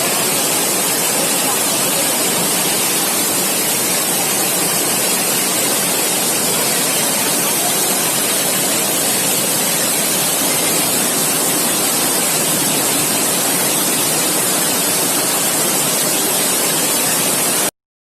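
Loud, steady rushing of floodwater, a dense hiss without letup, cutting off suddenly near the end.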